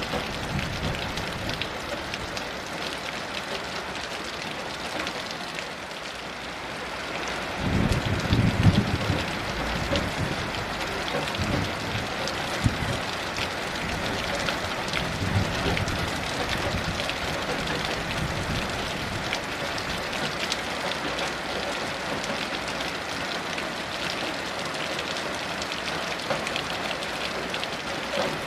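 Steady heavy rain, with a low rumble of thunder that starts about a quarter of the way in and dies away over several seconds.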